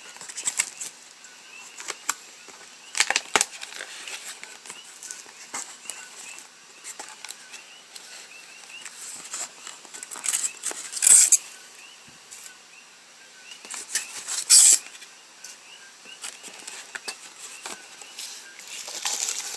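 Packaging being handled and rustled in irregular crinkling bursts, two of them louder past the middle.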